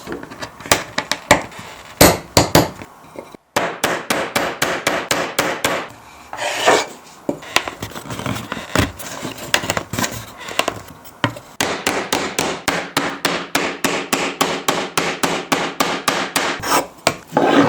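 Rapid tapping knocks of a hammer on wood, about four or five a second, as a tight-fitting wooden joint is driven together, with a short scrape of wood on wood partway through.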